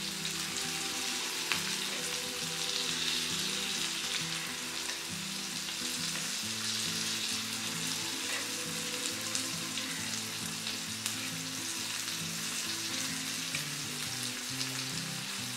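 Rice-flour-coated drumstick pods sizzling steadily as they shallow-fry in oil on a flat tava. A metal spatula scrapes and clicks against the pan as the pods are turned.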